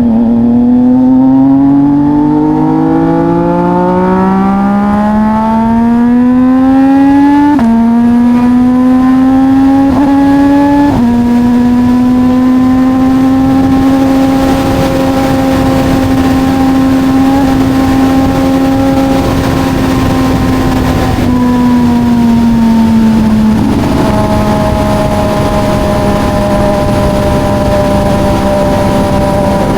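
CFMOTO 675SR's three-cylinder engine through an SC Project carbon exhaust, accelerating through the gears with its pitch rising and two quick upshifts in the first eleven seconds. It then holds a steady cruise, eases off slightly, and shifts once more before settling into a steady note.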